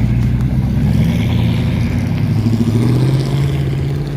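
Classic car engine running as the car rolls past at low speed, its note rising a little about three seconds in.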